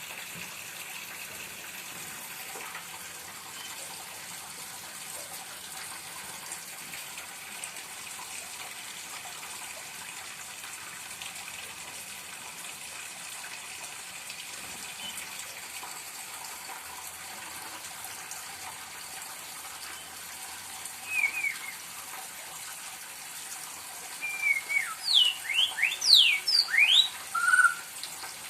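A steady rushing hiss like running water. Over it a pet white-rumped shama (murai batu) sings a short phrase about two-thirds in, then a louder run of quick, steeply sweeping whistles near the end.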